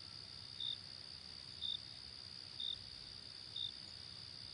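Short high chirps, one about every second, over a faint steady high whine, like an insect chirping.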